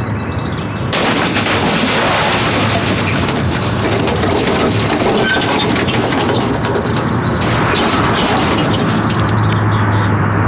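A film crash sequence in which an Iveco Stralis truck smashes into an Opel Vectra. A sudden loud crash about a second in is followed by several seconds of dense crunching and scraping, with a brighter, hissing burst around seven and a half seconds in, all over a steady low hum.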